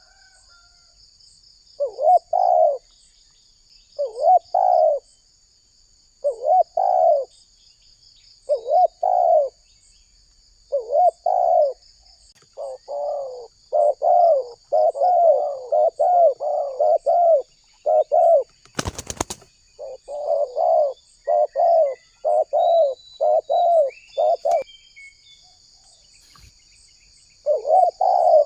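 Spotted dove cooing, its phrases about two seconds apart at first, then quickening into fast runs of coos through the middle, with a pause of about three seconds near the end. A sharp click comes about two-thirds of the way in, and a steady high whine runs underneath.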